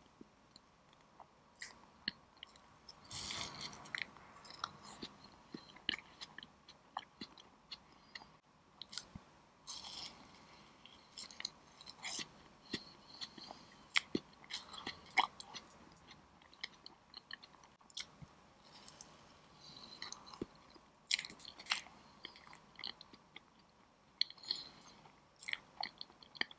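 Close-miked mouth sounds of a person eating soft cream-frosted sponge cake: slow chewing with many small wet clicks and lip smacks. A louder rustle comes about three seconds in.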